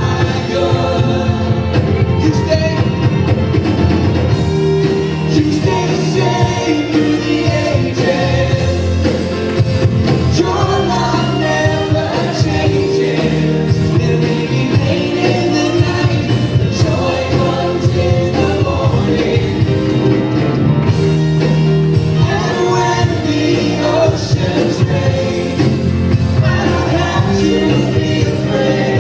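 Contemporary worship band playing a song while singers and the congregation sing along.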